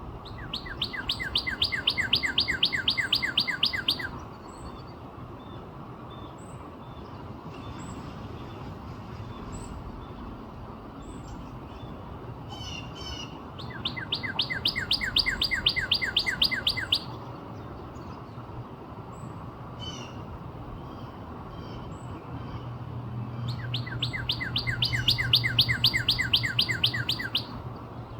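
Northern cardinal singing three songs, each a fast run of repeated slurred whistles about three seconds long. Faint short high chips fall between the songs, and a low steady hum comes in under the last song.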